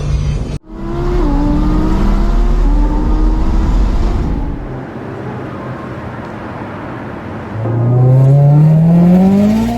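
GMC Syclone's turbocharged 4.3-litre V6 accelerating hard, its engine note climbing in pitch twice: once early, then again louder near the end.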